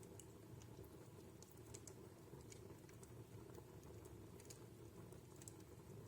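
Wood fire in a fireplace crackling faintly: irregular small sharp pops and ticks over a low steady rumble of the burning.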